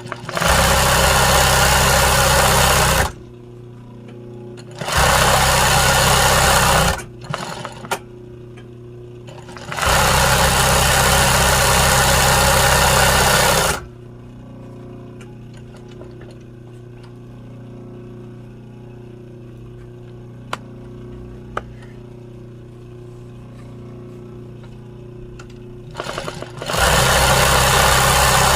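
Sewing machine stitching embroidery in four runs of two to four seconds each. Between the runs a low steady motor hum continues, with a couple of faint clicks.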